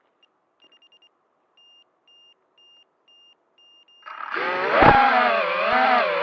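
A series of faint, high electronic beeps, all at one pitch and about two a second. About four seconds in, the QwinOut F4X1 racing quad's brushless motors and propellers spin up loudly, their whine rising and falling in pitch with the throttle.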